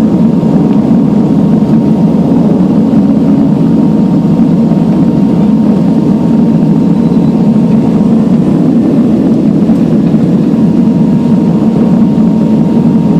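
Steady engine and propeller drone inside the cabin of a Buddha Air turboprop airliner, a loud even rumble with a faint high hum running through it.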